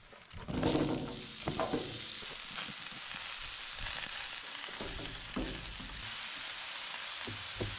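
Food sizzling as it fries: a steady hiss that starts about half a second in.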